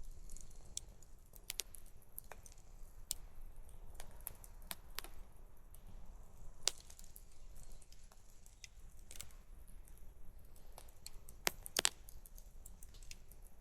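Wood campfire crackling: irregular sharp pops and snaps, a few louder ones near the middle and near the end.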